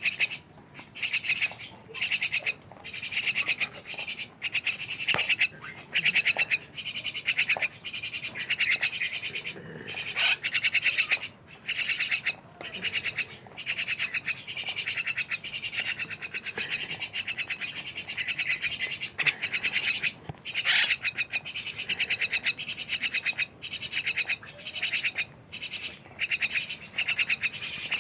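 Javan mynas (jalak kebon) chattering continuously: harsh, buzzy, rapidly pulsed phrases about a second long, one after another with short gaps.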